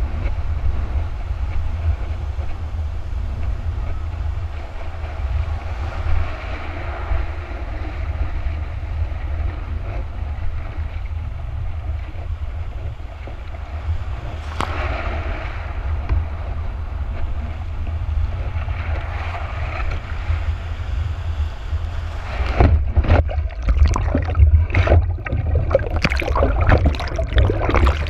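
Heavy wind buffeting a board-mounted action camera's microphone over the hiss of water rushing past a board at speed. From about 22 seconds in comes a run of sharp splashes and slaps as the board hits chop.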